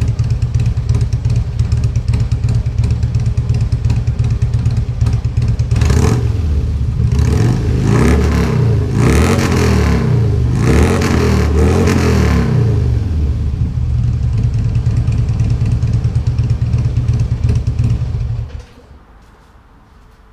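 Harley-Davidson V-twin with RC 4.5-inch slip-on mufflers idling, then revved four or five times in quick blips, with a deep exhaust note, before the engine is shut off near the end.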